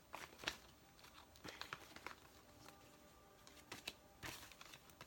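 Tarot cards being handled and shuffled: faint, scattered flicks and taps of the card stock.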